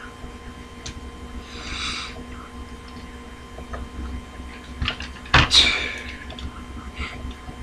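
A faint steady hum with a short rustle early on, then a sharp clatter about five and a half seconds in, like a small hard object knocking or landing.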